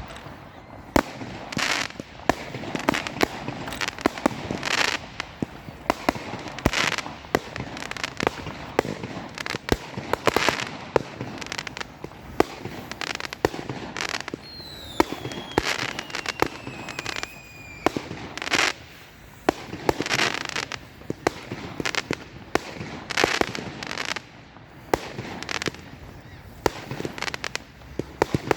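Fireworks going off: a dense run of sharp bangs and crackling bursts. About halfway through, a whistling firework gives a falling whistle that lasts about three seconds.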